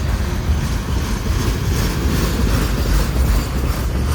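A freight train's cars rolling past on the rails, a loud steady rumble of wheels and cars.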